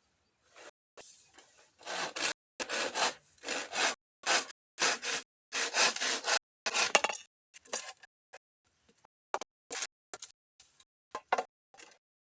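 Rhythmic back-and-forth strokes of a hand tool cutting or rasping bamboo, about two strokes a second for several seconds, then a few shorter, sparser strokes after a short pause.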